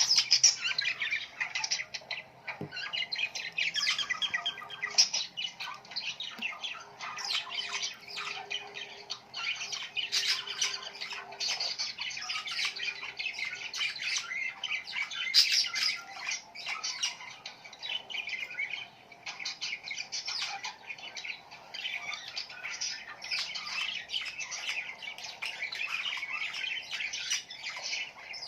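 A flock of small birds chirping and squawking in a dense, unbroken chatter of short, high calls.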